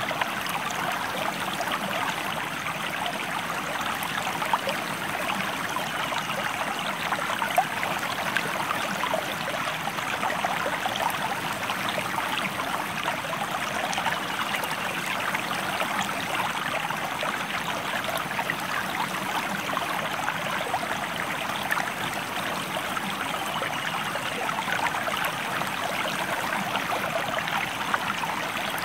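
A stream flowing steadily, with an even rush of water and many fine splashes that never let up.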